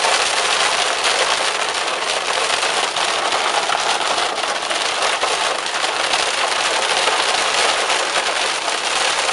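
Heavy thunderstorm rain hitting a car's roof and windshield, heard from inside the moving car: a steady, dense patter of many fine ticks.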